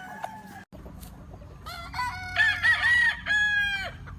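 A rooster crowing: one long crow starting about halfway through, after a quiet opening.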